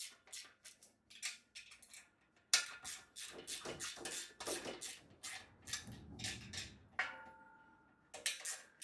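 A spanner working the small pinch bolts on a bed upright's bracket: a string of irregular metal clicks and clinks, a few a second. About seven seconds in, a metal part rings briefly.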